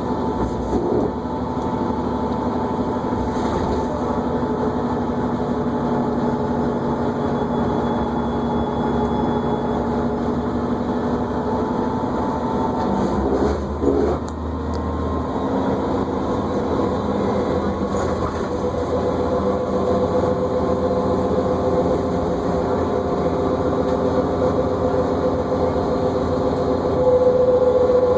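Inside a New Flyer D40LFR diesel transit bus under way: steady engine and drivetrain noise with a whine. A short dip comes about fourteen seconds in, and over the last several seconds the whine rises in pitch as the bus picks up speed.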